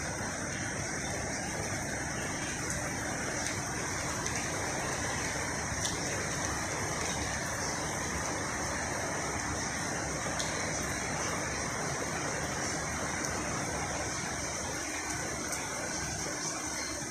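Heavy rain with traffic on wet roads: a steady rushing hiss of rain and tyres, with a few faint ticks.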